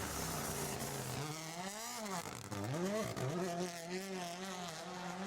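Rally car engine revving hard, its pitch climbing and dropping several times, with a deep dip about two and a half seconds in.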